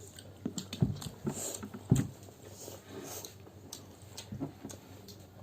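Faint, irregular clicks and knocks, the loudest about two seconds in.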